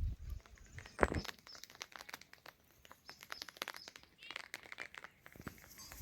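Irregular clicks and crackles, with a louder knock about a second in.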